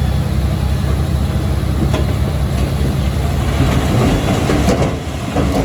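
Komatsu D21P crawler bulldozer's diesel engine running steadily under a continuous clanking of its steel tracks. The clanking grows denser for a second or two past the middle, then the sound eases a little near the end.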